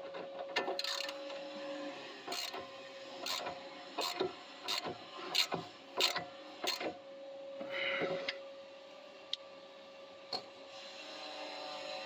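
Wrench ratcheting on the top sway bar link nut as it is torqued down: a series of sharp clicks, about two a second for the first several seconds, then a few scattered clicks, over a steady faint hum.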